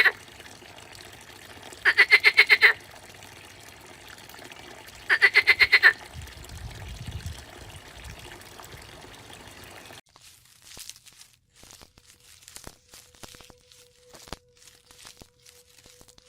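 A frog calling: short pulsed croaks, each a quick run of about ten pulses lasting under a second, twice about three seconds apart after the tail of one at the start, over a faint hiss. About ten seconds in the calls give way to scattered soft clicks and a faint steady hum.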